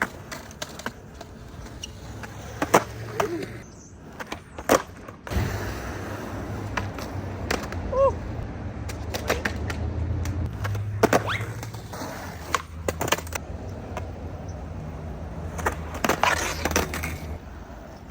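Skateboard wheels rolling on wet concrete with a low rumble, broken by several sharp clacks of the board hitting the ground as tricks are popped and landed.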